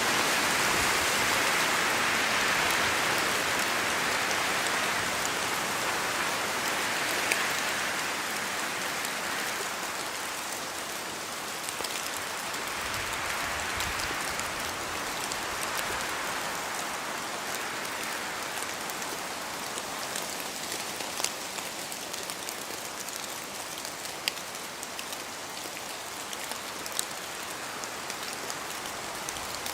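Steady rain falling in a forest, with gusts of wind through the trees. The hiss is fuller in the first ten seconds or so, then eases. Now and then a single sharp tap of a heavy drop falling from the trees cuts through.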